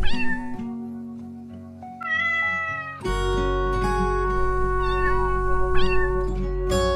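A cat meowing twice in short, high-pitched calls, once at the start and again about six seconds in, over soft instrumental background music with sustained notes.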